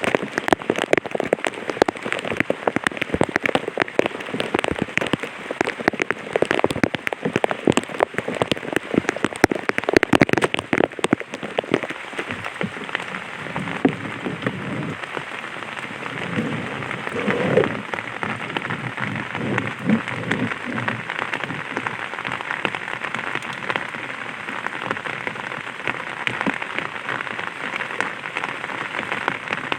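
Light rain falling on an umbrella: many close, sharp drop hits over a steady patter. The hits are dense for the first ten seconds or so, then settle into an evener patter.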